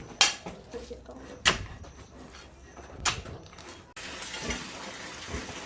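Three sharp knocks about a second and a half apart, then an abrupt change to a steady hiss about four seconds in.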